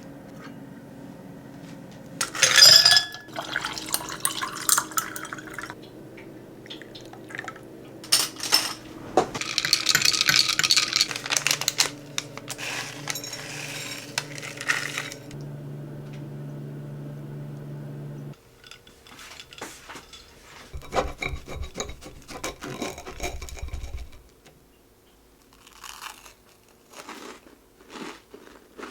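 Kitchen handling sounds: dishes and containers clattering and knocking at irregular moments, with a longer stretch of water-like rushing noise about a third of the way in.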